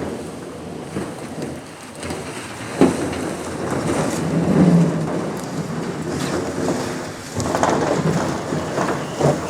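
Rumbling, scraping noise of a heavy wooden chicken tractor being dragged by a rope over the ground, swelling and easing as it is hauled, with a sharp knock about three seconds in.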